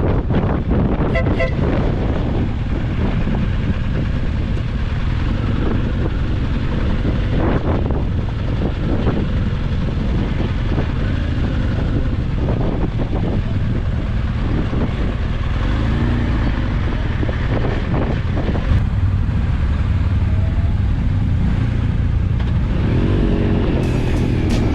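Motorcycle riding on the road: steady rumble of wind buffeting the microphone with the engine running underneath.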